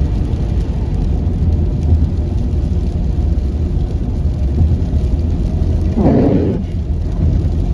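Steady low rumble of a car's tyres and engine heard from inside the cabin while driving on a snowy highway, with a short louder burst of noise about six seconds in.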